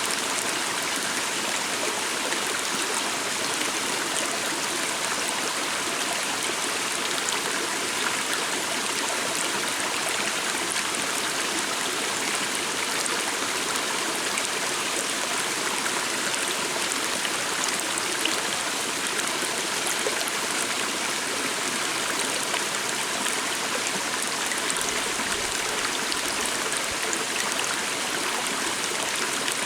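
A stream flowing steadily, a continuous even rush of water that does not change.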